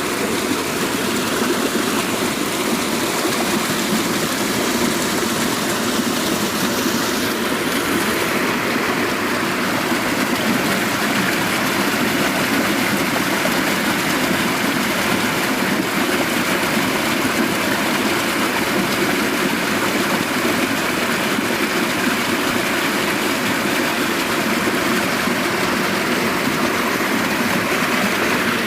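Loud, steady rush of flowing water in a stream.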